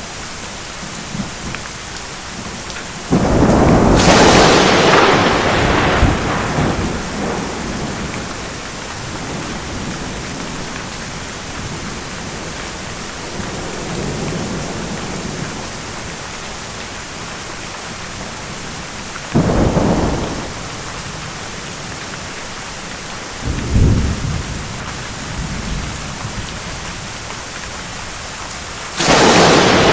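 Steady heavy rain with thunder. A loud thunderclap about three seconds in rolls on for several seconds, then shorter claps come around two-thirds of the way through and again near the end.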